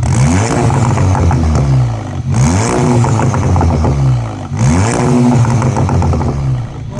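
Audi S3 8V's turbocharged 2.0-litre four-cylinder revved loudly three times with the exhaust valve open, the gas venting through the bonnet exhaust cut-out. Each rev rises and then falls in pitch.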